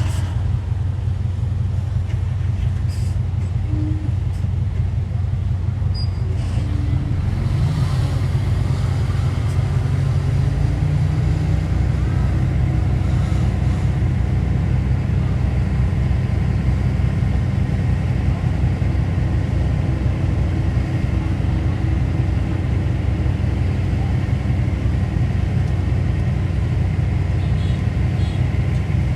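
Diesel engine of heavy earthmoving machinery running steadily with a deep rumble; its pitch picks up slightly around ten seconds in.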